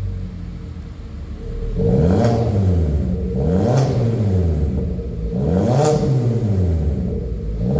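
Hyundai Avante CN7 with an aftermarket valved exhaust and custom muffler, idling and then revved three times, each rev rising and falling in pitch, about two seconds apart.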